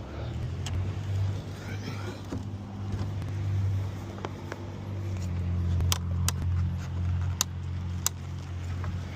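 A vehicle engine idling steadily, with a few sharp clicks and taps from a long-reach lockout tool working inside a truck's cab, most of them in the second half.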